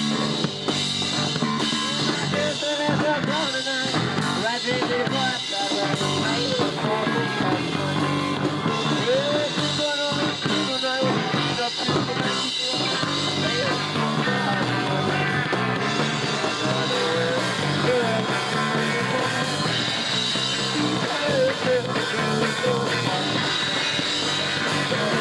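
Live punk rock band playing loud: drums and guitars, with singing over them.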